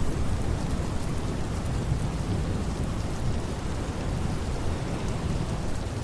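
Steady rain falling, with a deep low rumble underneath.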